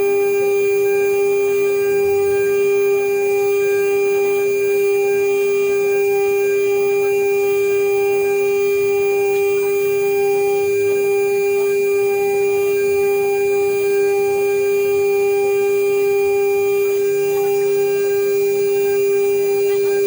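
CNC router spindle running at constant speed with a steady, unchanging whine while milling an aluminium seal plate.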